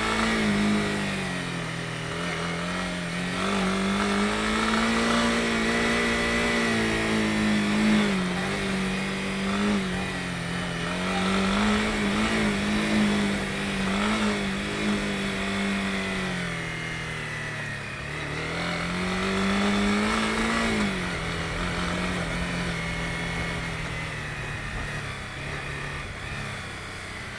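Honda CB250R's single-cylinder engine under way, its revs rising and falling repeatedly as the throttle is opened and closed, with sharper drops in pitch about two-thirds of the way through.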